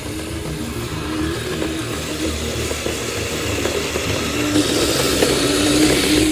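An RC snowcat's electric track motors whine, shifting in pitch, while its tracks churn through snow. The sound grows louder and hissier near the end and then cuts off abruptly.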